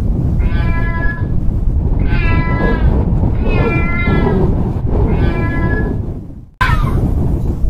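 Domestic cat meowing four times, each meow about a second long with short gaps between. Near the end, after a sudden cut, a short high cry falling in pitch.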